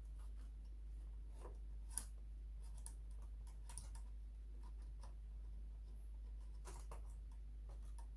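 Light, scattered clicks and taps of a floppy disk drive and its small mounting parts being handled and set in place inside a sewing machine, with one sharper click about two seconds in.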